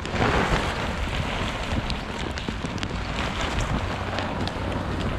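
Wind buffeting the microphone, a steady low rumble, with rain pattering in faint scattered ticks.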